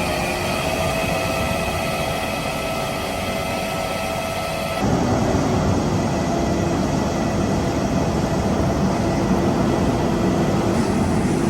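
Heavy road-construction machinery running steadily, a loud drone with held mechanical tones. About five seconds in the sound cuts abruptly to a louder, deeper machine drone.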